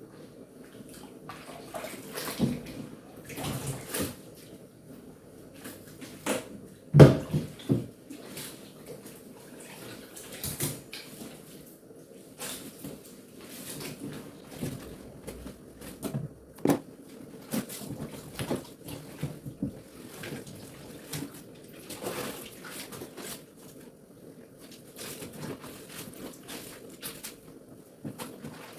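Wet clothes being rubbed and handled in a washing-machine tub of water: irregular sloshing, splashing and rustling of soaked fabric, with the loudest splash about seven seconds in.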